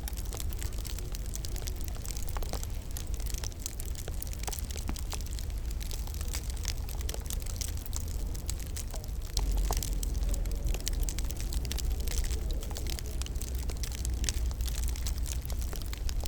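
Wood fire crackling, with frequent small pops and snaps over a steady low rumble. The rumble grows slightly louder about nine seconds in.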